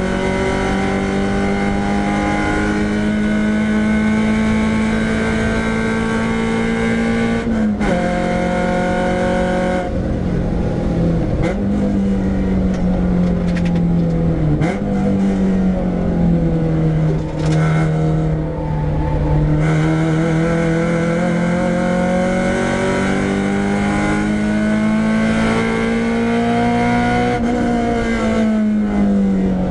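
Renault Clio 172's 2.0-litre four-cylinder engine driven hard on track, heard from inside the stripped-out cabin. The revs climb steadily and drop sharply at gear changes near the start and about 8 seconds in, fall and wander through a slower section, then climb again before dropping near the end, over steady road and wind noise.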